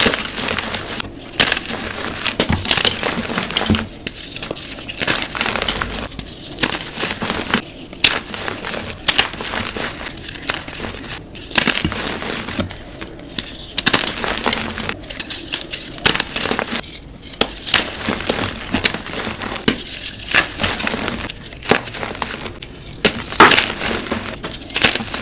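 Blocks of gym chalk being crushed: a dense run of dry, crackly crunches and crumbling, broken by short pauses every second or two.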